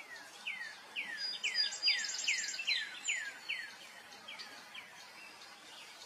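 A bird calling: a rapid run of short whistled notes, each sliding downward, about three a second, loudest in the middle of the run and fading out near the end.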